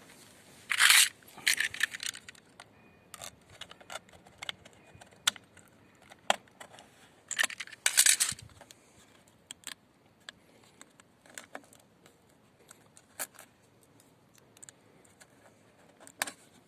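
A sealed plastic engine-oil canister being opened by hand, its tamper seal breaking: short crackling rips, loudest about a second in and again near the middle, among many small plastic clicks.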